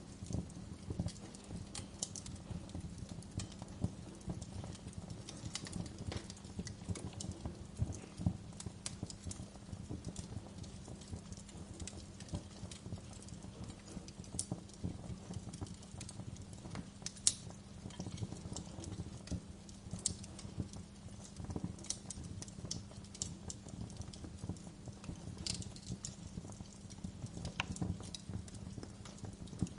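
Wood fire burning in a fireplace: a steady low rumble of the flames under irregular crackling, with scattered sharper pops, the loudest about two-thirds of the way in.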